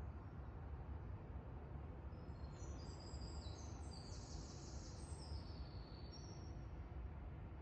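Birds calling in a quick run of short high-pitched notes at several pitches for a few seconds in the middle, over a steady low background rumble.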